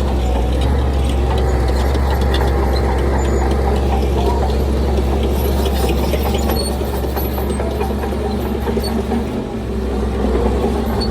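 Heavy diesel engine of earthmoving machinery running steadily with a deep, even hum. Scattered clicks and rattles come through over the first half.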